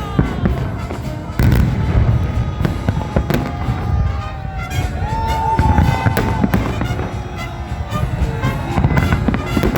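Fireworks salute going off: many bangs and crackles in quick succession over a continuous low rumble, with a louder burst about a second and a half in.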